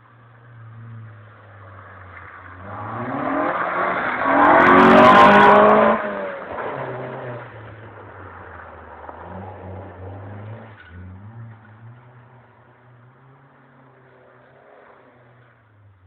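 Proton Compact's engine revving hard, its pitch climbing to a loud peak about five seconds in, with a short hissing burst at the peak, then dropping back to a quieter, uneven running note.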